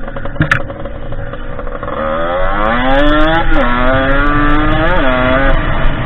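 Derbi 50cc two-stroke engine on a dirt bike under way. It runs low for a couple of seconds, then revs up with a steadily rising pitch, drops sharply about halfway through, climbs again and falls near the end.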